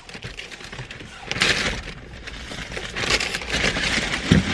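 Irregular rustling and handling noise starting about a second in, with a low thump near the end.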